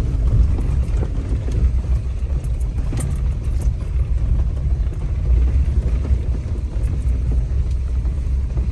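Jeep Wrangler running slowly over an off-road trail: a steady low rumble of engine and drivetrain, with a few faint knocks or clicks, one about three seconds in.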